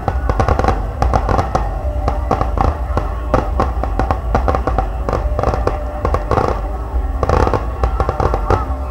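Fireworks exploding and crackling in rapid, dense bursts, with denser clusters near the start and about seven and a half seconds in, over steady music.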